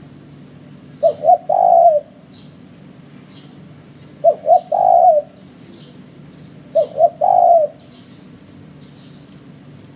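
Spotted dove (tekukur) cooing three times, about every three seconds. Each phrase is two quick short notes followed by one longer drawn-out coo.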